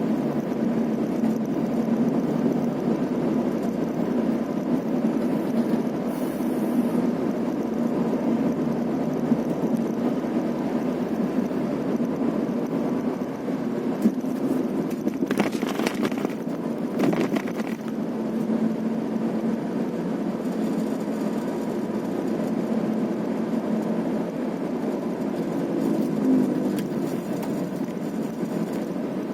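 A vehicle running steadily along a road, engine and road noise heard from on board, with a brief louder rushing spell about halfway through.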